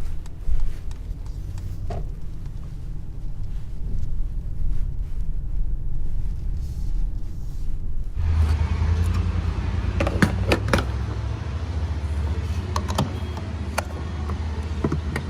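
Low steady vehicle rumble with a few faint clicks. About eight seconds in, a wider hiss sets in abruptly, with several sharp clicks and knocks.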